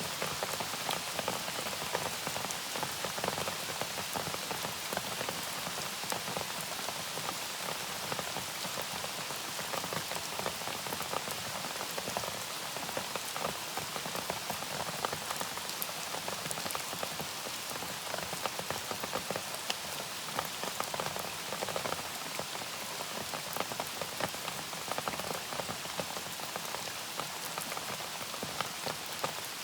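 Steady, gentle rain: an even hiss of falling rain with many close individual drops ticking through it.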